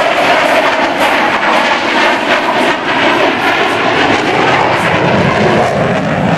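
Grumman F-14 Tomcat's twin jet engines during a fly-by pass: loud, steady jet noise.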